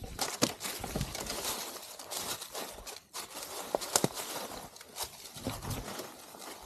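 Footsteps crunching and shuffling through dry leaves and twigs on the forest floor, irregular steps of people hiking uphill.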